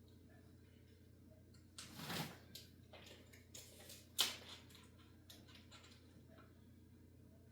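Sail cloth rustling and crinkling as it is handled, in a few short bursts, with a sharp crisp snap about four seconds in.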